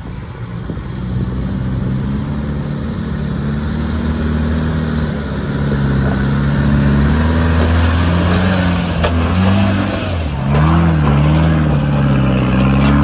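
Land Rover Defender engine pulling the truck slowly up a rocky, rutted climb, getting louder as it nears. Over the last few seconds the revs rise and fall repeatedly as it crawls over the rocks.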